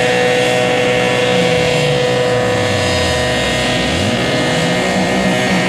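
Sport motorcycle engine revved up and held at a steady high pitch for several seconds, dropping off near the end. A second, lower engine rises and falls underneath it.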